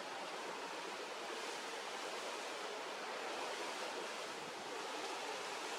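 Steady wash of ocean surf on a beach, an even rushing noise with no bird calls standing out.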